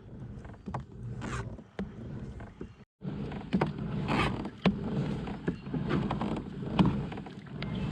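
Kayak and fishing-gear handling on the water: scattered knocks and clicks of a paddle and gear against a plastic kayak hull, with light creaks, broken by a brief moment of silence about three seconds in.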